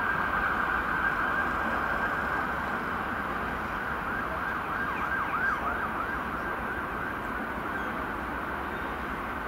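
Class 450 electric train running round a curve, a steady high-pitched squeal over the low rumble of the train, wavering a few seconds in and easing off slightly as the train draws away.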